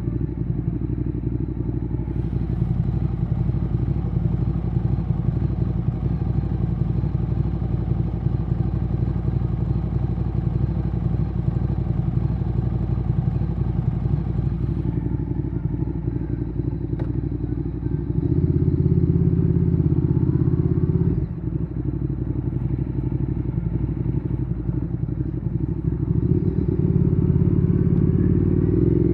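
Ducati Streetfighter 848's L-twin engine running through a Termignoni exhaust while being ridden, a steady low engine note. About two-thirds of the way in it gets louder for some three seconds, then drops off suddenly, and near the end it gets louder again for about three seconds.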